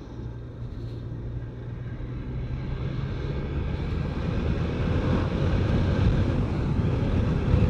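BMW K1200RS inline-four motorcycle engine running under way, with wind noise over the helmet microphone; the sound grows louder over the second half.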